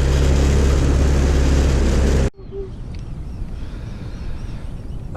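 Boat's outboard motor running at speed with wind and water noise, cutting off abruptly a little over two seconds in to a much quieter low rumble.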